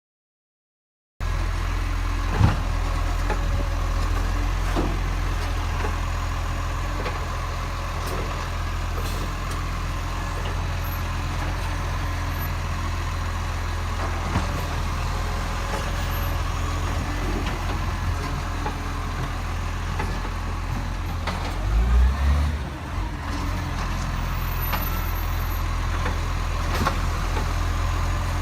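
Garbage truck engine running steadily with a low, even rumble, starting about a second in, with a brief louder low surge about three-quarters of the way through.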